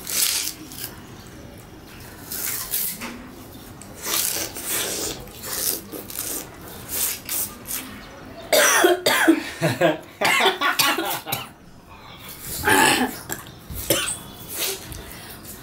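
Two people biting and chewing raw sugarcane, with irregular bursts of crunching and tearing at the fibrous stalk. Throaty vocal noises come in between about eight and a half and thirteen seconds in.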